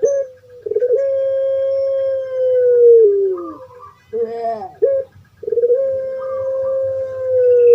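Puter pelung dove (Streptopelia risoria) cooing. Two long drawn-out coos each hold one pitch for about two and a half seconds and then drop at the end, with a short rising-and-falling coo between them.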